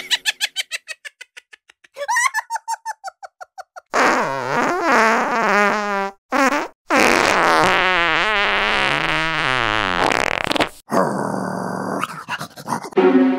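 Small dog making a long, wavering vocal grumble, broken by short pauses. Before it, twice, a short sound repeats and fades like an echo.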